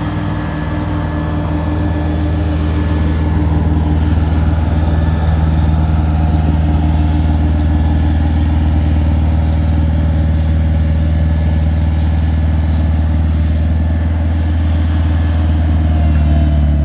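A heavy vehicle's engine idling steadily, close by: a deep, even hum.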